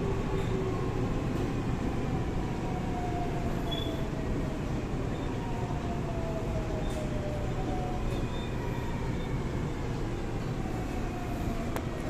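Seoul Line 4 4000-series GTO-VVVF electric train, with a steady rumble of running noise and the inverter and traction-motor whine gliding slowly down in pitch as the train slows into a station.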